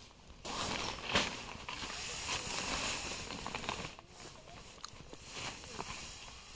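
Rustling of tent gear being handled: a loud hissing rustle for about three seconds with a sharp knock about a second in, then softer scattered rustling.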